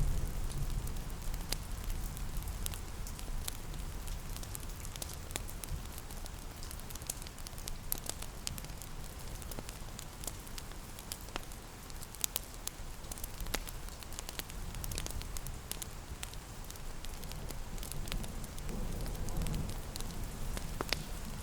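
Fireplace crackling, with sharp irregular pops and snaps, over a steady patter of rain. A low rumble runs underneath and swells briefly near the end.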